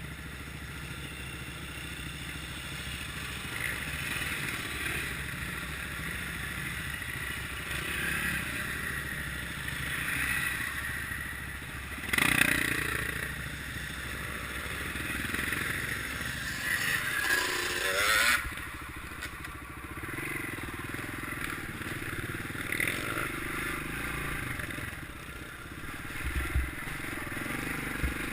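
Kawasaki KLX650R's single-cylinder four-stroke engine running steadily while the bike is ridden off-road. There is a louder surge about twelve seconds in and a short rising rev around seventeen to eighteen seconds.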